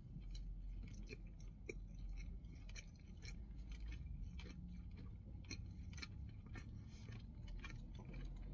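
A person chewing a mouthful of burger with crispy onion rings, close to the microphone: soft, irregular wet clicks and small crunches.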